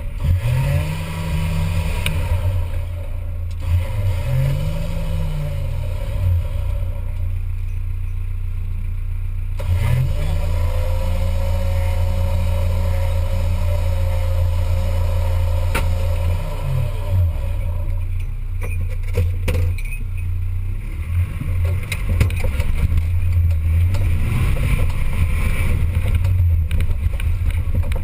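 Off-road 4x4's engine running under load, revved up and dropped back several times.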